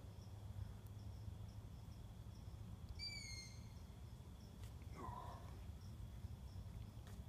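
A night bird calls once about three seconds in: a short, slightly falling note. Behind it runs a faint, even high ticking of insects over a low steady background.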